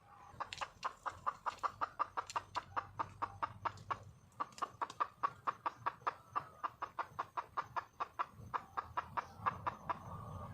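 Wild junglefowl hen giving a fast run of short clucking notes, about five a second, with a brief break partway through: the hen's call to attract a male.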